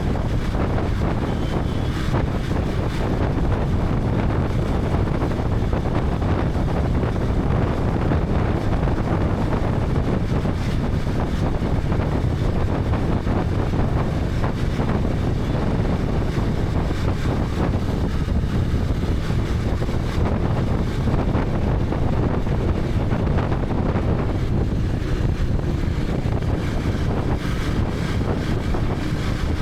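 KTM 250 Adventure's single-cylinder engine running under way, with wind rushing over the action camera's microphone.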